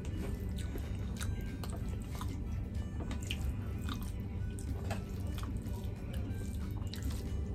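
Close-up chewing of chicken curry and rice, with scattered wet mouth clicks and smacks, and fingers working rice into the curry sauce, over background music.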